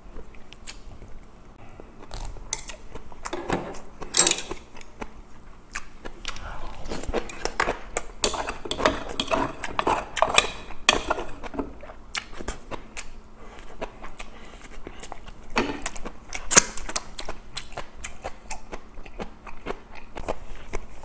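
Close-miked chewing and crunching of fresh cabbage kimchi, with sharp clicks of wooden chopsticks against the dishes.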